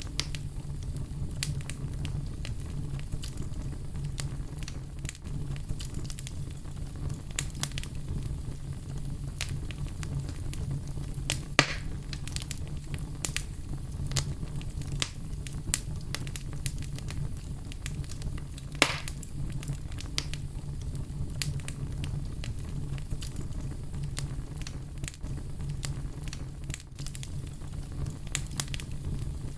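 Wood fire burning with a steady low rumble and frequent irregular crackles and pops, a few louder snaps among them.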